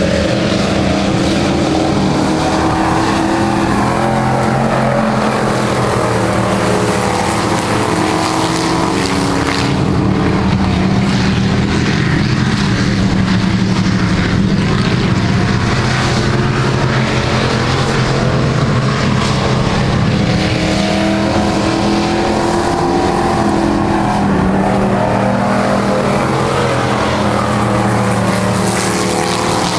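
Several race trucks' engines running together at speed, a steady, layered engine drone whose pitch rises and falls a little as the trucks lap the track.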